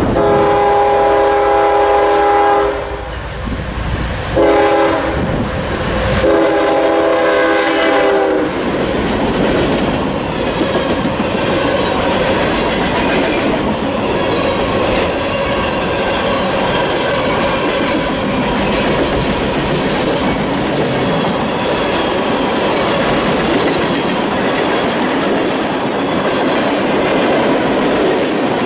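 Freight train locomotive horn sounding a multi-tone chord in a long, a short and a long blast as the train approaches. Then the steady rumble and clickety-clack of covered hoppers and tank cars rolling past close by.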